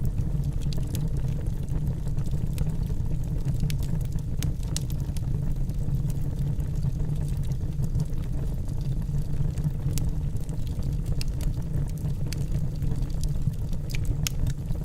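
Wood fire burning in a fireplace: logs crackling with many irregular sharp pops over a steady low roar of the flames.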